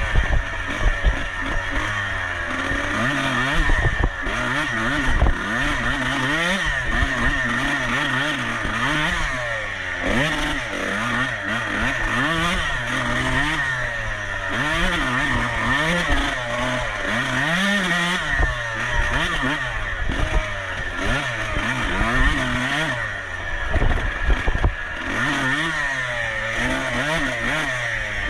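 Dirt bike engine racing, its pitch climbing and dropping over and over as the throttle is worked on and off, with scattered knocks and clatter.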